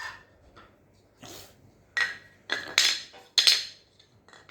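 Toy train track pieces clicking and clattering against each other as they are handled and fitted together: a run of sharp knocks from about a second in.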